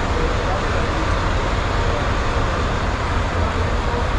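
Semi-truck's diesel engine running, a steady low rumble with an even wash of noise.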